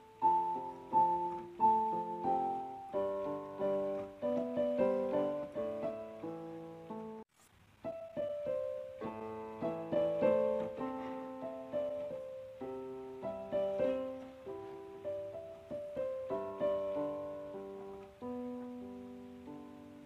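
Background piano music: a slow melody of struck notes and chords, each note fading away, with a brief break about seven seconds in.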